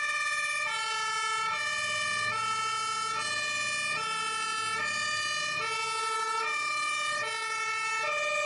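Fire truck's two-tone siren, alternating between a high and a low note about every two-thirds of a second, with a faint engine rumble underneath.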